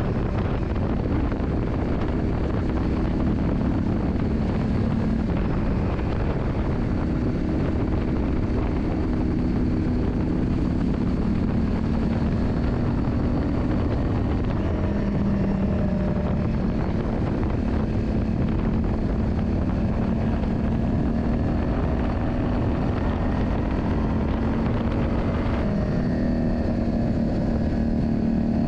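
Yamaha Drag Star 400's V-twin engine running steadily, its note stepping to a new pitch a couple of times, about halfway through and near the end, over a heavy low rumble of wind on the microphone.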